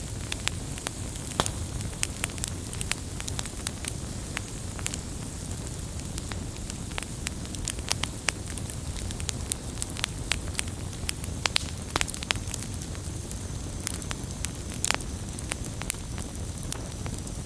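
Firewood burning: a steady low hiss and rumble of the flames with frequent sharp, irregular crackles and pops from the logs.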